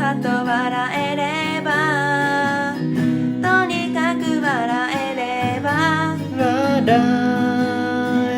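Acoustic guitar strummed while a voice sings over it, the voice sliding between notes.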